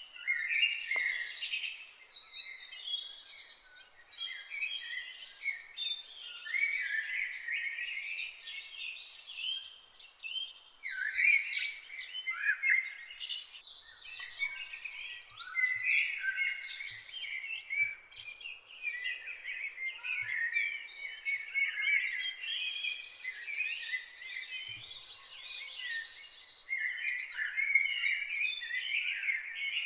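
Many songbirds singing at once: a dense morning chorus of overlapping chirps and short song phrases, without a break.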